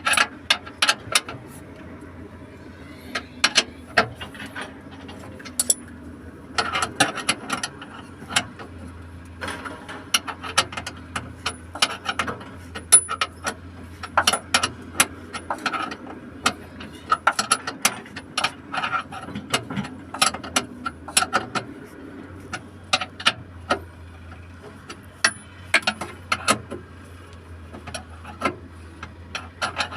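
Hand tools at work on metal: many irregular clicks and taps, like a ratchet wrench and fasteners being worked, over a steady low hum.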